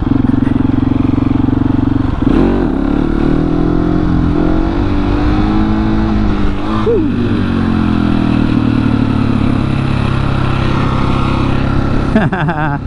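Husqvarna 701's single-cylinder engine running on the move, its pitch rising and falling with the throttle, with a short sharp rev about seven seconds in.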